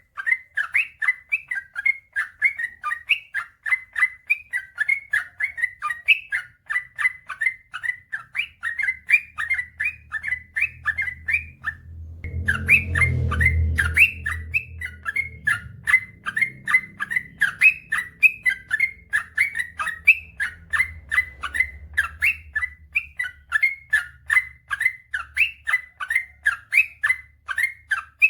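Yellow-vented bulbul (trucukan) singing a long, rapid run of repeated chirpy notes, about three a second. A low rumble rises under the song about twelve seconds in and fades a few seconds later.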